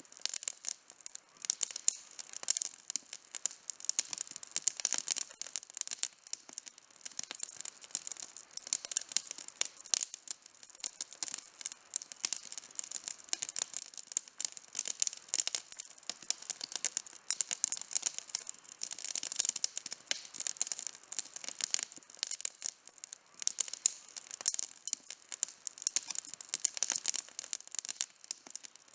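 Campfire burning with dense, irregular crackling and snapping of wood, mostly high-pitched pops.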